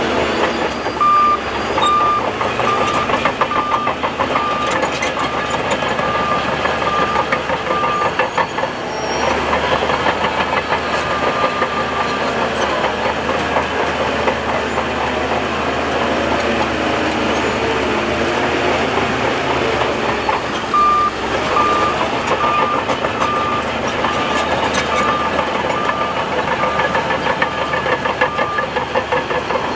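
Heavy earthmoving machine's diesel engine running steadily under work, with its reversing alarm beeping about twice a second for several seconds near the start and again for several seconds in the last third.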